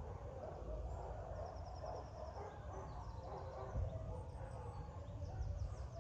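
A chorus of kennel dogs barking continuously over a low rumble. A bird's short, high trill breaks in three times.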